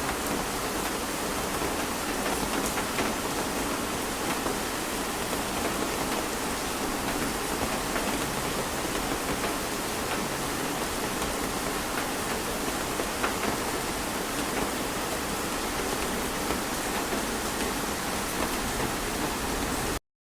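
Heavy rain falling steadily, a dense even hiss with scattered drop hits; it cuts off suddenly near the end.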